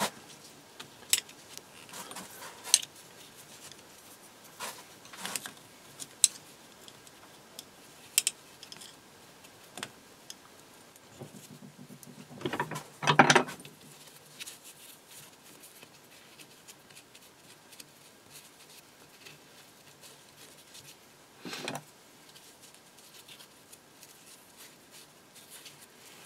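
Scattered light metallic clicks and scrapes as a thin metal rod pokes a felt ring into the groove of a drop-forged steel vise jaw, with a louder clatter about thirteen seconds in.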